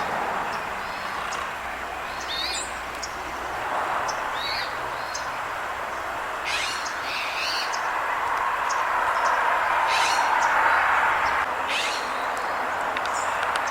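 Small songbirds giving short, scattered chirps over a steady background rush that swells for a few seconds about two-thirds of the way in.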